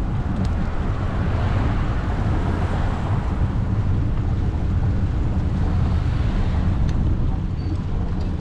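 Wind buffeting the microphone while riding a bicycle: a steady low rumble with a hiss that swells about two seconds in and fades again.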